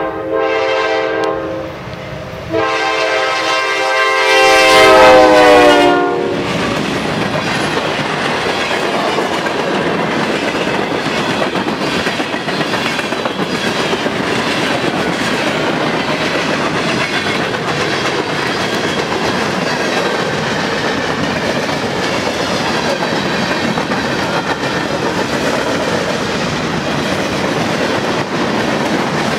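Freight locomotive horn sounding loudly, broken once about two seconds in, then a long blast that drops in pitch as the locomotive passes and cuts off about six seconds in. After it, the steady clatter of a long freight train's tank cars, hoppers and boxcars rolling past close by.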